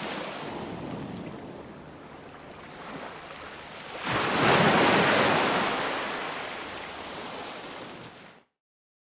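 Ocean waves breaking on a shore: a steady wash, then a wave swells and crashes about four seconds in and slowly washes back. The sound cuts off abruptly to dead silence near the end.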